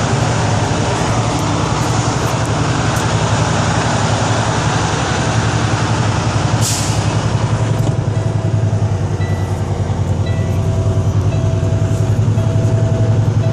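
Semi truck's diesel engine running steadily under way, heard from inside the cab as a low drone with road noise. A short hiss comes about seven seconds in.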